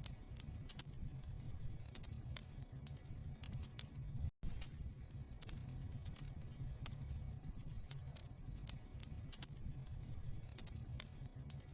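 Wood fire burning in a fireplace, crackling with scattered sharp pops and snaps over a low rumble. The sound cuts out for a split second about four seconds in.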